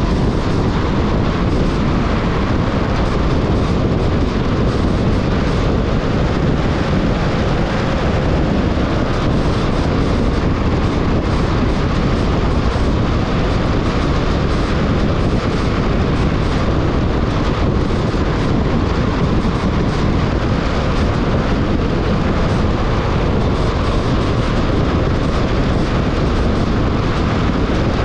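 Steady road noise of a car driving: tyre rumble and wind at a constant level.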